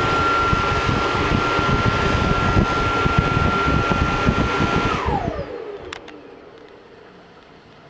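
Vacuum cleaner running with a steady whine, switched off about five seconds in; its motor winds down, the whine falling in pitch as it fades. A few faint ticks follow.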